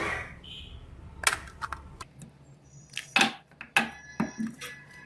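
Irregular sharp clicks and light plastic knocks of a Samsung J5 smartphone being handled and prised open for repair, about half a dozen taps spread over the few seconds.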